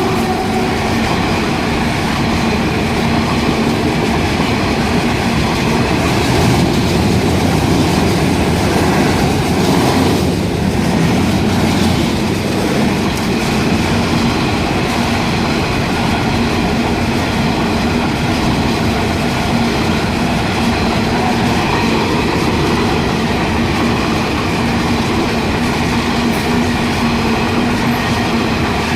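Loaded freight train passing close by, its wheels rolling and clattering steadily over the rails, with a few steady ringing tones running through the noise.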